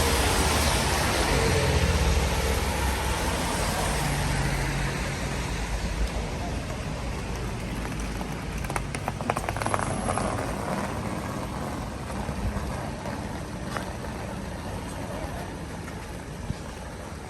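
A car passing on a wet street: its engine hum and tyre hiss are loudest at first and fade over the first several seconds, over the steady hiss of rain.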